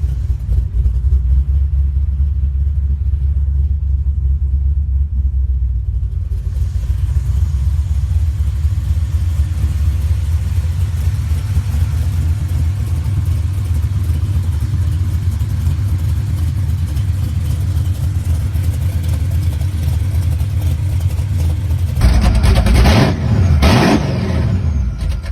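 Car engine running with a deep, steady rumble; near the end it is revved sharply several times.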